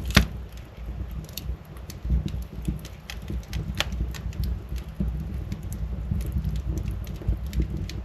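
Wood fire burning in a fireplace, a low steady rumble of flames with irregular sharp crackles and pops, the loudest pop just after the start.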